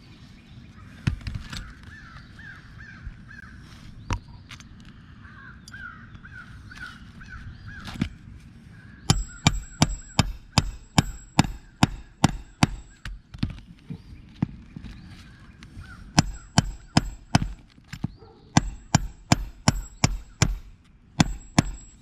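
Two runs of sharp, quick nailing strikes into roof shingles, about three a second, each strike ringing briefly; the first starts about nine seconds in and the second about sixteen seconds in. Before them come a few single knocks and a run of squeaky chirps.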